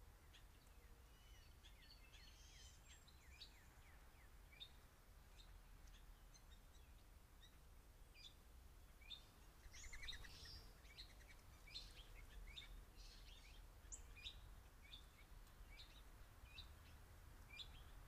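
Faint birdsong: songbirds giving many short chirps and calls, with a denser burst of chattering about ten seconds in, over low steady background noise.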